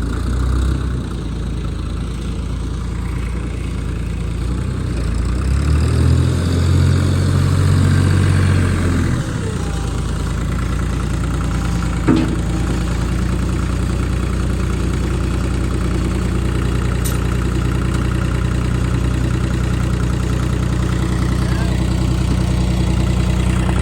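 Deutz-Allis 5230 diesel tractor engine running at idle. About five seconds in, its low note grows louder for about four seconds, then it settles back to a steady run, with a single sharp click about twelve seconds in.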